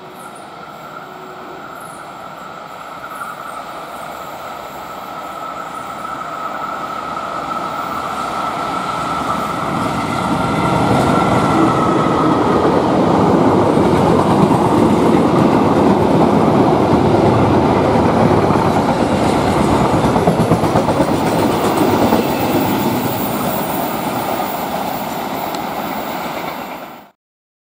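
Diesel-hauled passenger train approaching and running past close by. Its rumble grows for about ten seconds and then holds, with the carriages' wheels running over the rails. A steady high wheel squeal fades out about twelve seconds in, and the sound cuts off abruptly near the end.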